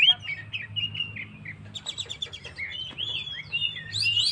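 Oriental magpie-robin (kacer) singing in full voice: a fast run of varied whistled notes, with a quick rattle of short notes about two seconds in. A faint steady low hum runs underneath.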